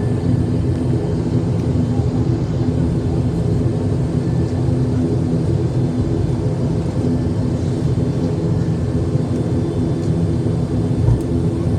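ATR twin-turboprop airliner's engines and propellers at take-off power: a loud, steady drone with a hum of several steady low tones that holds unchanged throughout.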